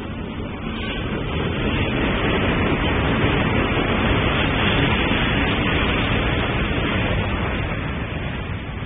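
Passenger train headed by two coupled locomotives pulling into a platform: the engine and running noise build to a loud, steady rumble through the middle, then ease off near the end as the train goes by.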